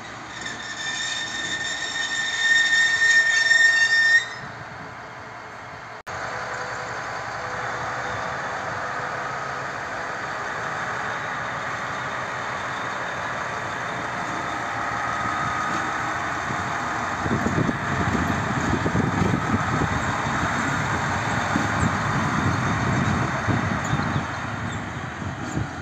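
Rail wheels squealing loudly for the first four seconds. Then a shunting diesel locomotive, a PKP Cargo SM42, runs light at low speed. From about two-thirds of the way in, a low clattering rumble of open freight wagons rolling past takes over.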